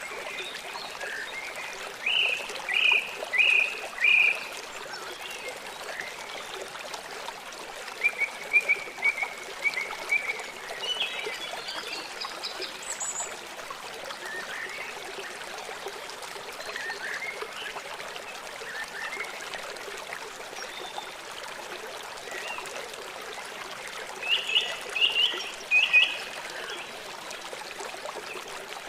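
Small songbirds chirping in short, quick phrases over a steady trickle of running water. The louder bursts of calls come about two seconds in, again around eight to thirteen seconds, and near the end.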